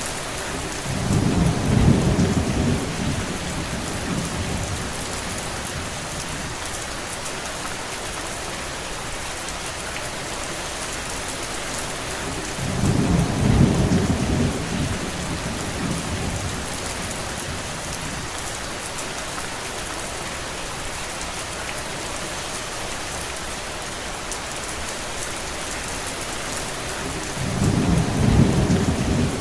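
Steady rainfall hissing, with three brief low rumbles swelling and fading: one near the start, one about halfway through and one near the end.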